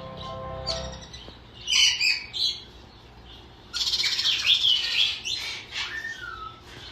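A pet parrot chirping: a few short high chirps, then about three seconds of rapid chirping and chatter with gliding notes.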